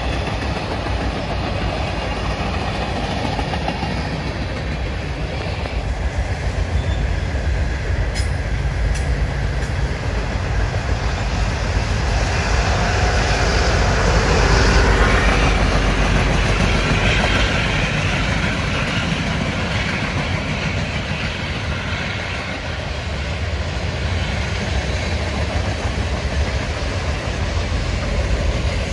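Long freight train of tank cars and boxcars rolling steadily past, wheels running on the rails. About halfway through, a CSX SD70AH diesel locomotive placed mid-train goes by, its engine adding a louder low running sound.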